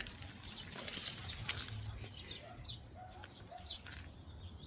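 A small bird chirping faintly: short, high, downward chirps repeating every second or so over a steady rushing background noise.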